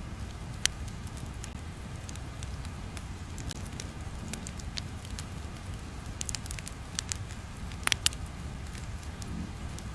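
Crackling-fire ambience: irregular sharp pops and snaps over a steady low rumble, with a few louder pops about eight seconds in.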